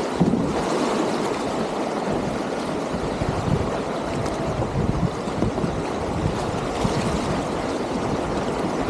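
Whitewater rapids rushing around a kayak: a steady churning rush of river water with small irregular splashes throughout.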